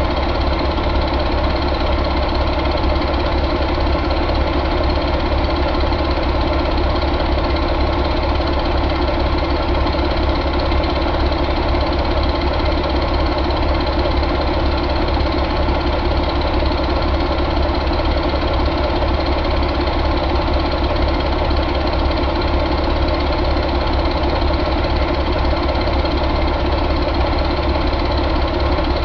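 Paccar MX13 inline-six diesel engine idling steadily, with a deep, even rumble and diesel clatter that does not change.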